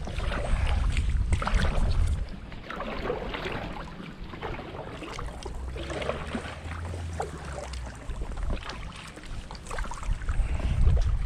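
Kayak being paddled into a headwind: irregular paddle splashes and small waves slapping the hull, with wind buffeting the microphone, heaviest in the first couple of seconds and again near the end.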